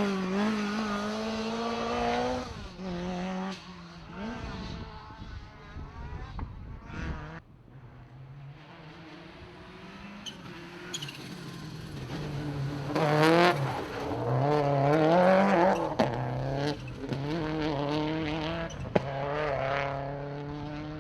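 Rally car engine revving hard, its pitch repeatedly climbing and dropping as it shifts through the gears. It fades around the middle, then comes back louder and is loudest a little past halfway as it passes close by.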